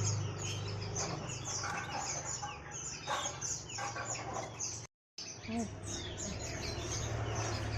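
A group of small birds chirping rapidly and continuously, in many short high chirps, over a low steady hum. The sound drops out completely for a moment about five seconds in.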